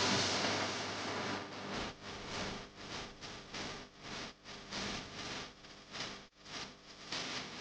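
Pencil scratching on paper in quick back-and-forth shading strokes, about two strokes a second.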